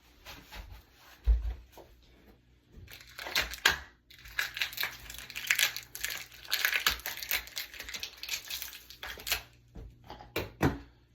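Fishing-rod packaging being crinkled and torn open by hand, in irregular bursts of rustling and crackling, with a single low thump about a second in.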